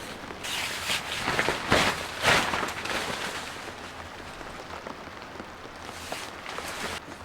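Rain pattering steadily, with a few louder brief noises in the first three seconds.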